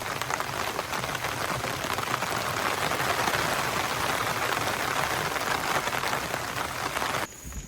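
Heavy rain pouring down, a dense, even hiss of drops that swells a little midway. It cuts off abruptly near the end.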